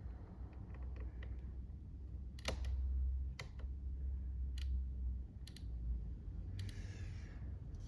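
Sharp clicks about a second apart from the Yamaha Ténéré 700's handlebar switch buttons being pressed to scroll through the dash menu, over a low rumble.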